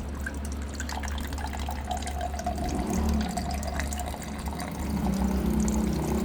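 Water running from a water dispenser's spout into a cup, filling it, as the cup pushes the dispensing lever.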